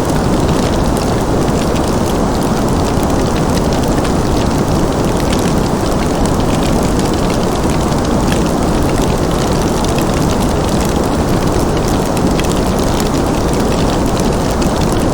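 Fireplace fire crackling: many small sharp pops and ticks scattered over a steady low rumble.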